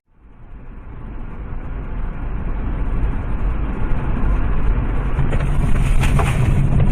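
Vehicle noise, engine and road together, growing steadily louder over several seconds.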